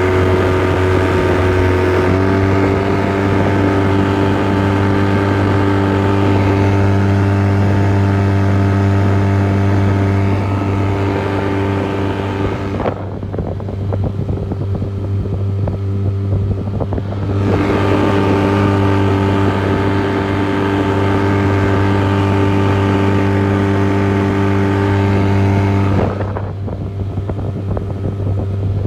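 Parsun 9.9 hp outboard motor running at full throttle with a loud, steady engine note. About 13 seconds in the higher part of the note falls away and the sound drops for some four seconds before the full-throttle note returns, and it drops the same way again near the end.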